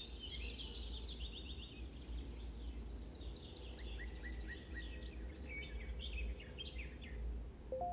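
Small birds chirping and trilling, with a fast high-pitched trill in the middle, over a low steady hum.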